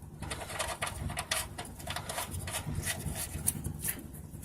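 Scattered light clicks and scrapes of hands handling parts and an oil drain pan under a car during an oil change.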